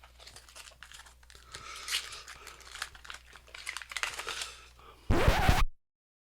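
Faint crinkling and tearing of chocolate bar packaging being opened, with small clicks. About five seconds in, a short loud burst of noise, after which the sound cuts out completely.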